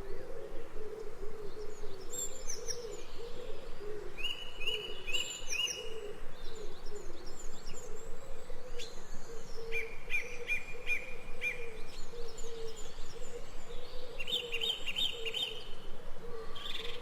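Birds singing: runs of quick repeated chirps a few seconds apart, with higher calls among them, over a steady low wavering tone.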